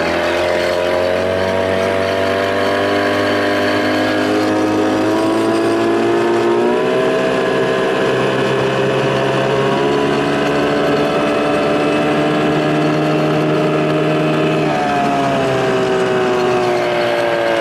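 1993 Evinrude 25 hp two-stroke outboard motor running under way, its pitch climbing gradually, stepping up about a third of the way in, then dropping and falling away near the end as the throttle comes back.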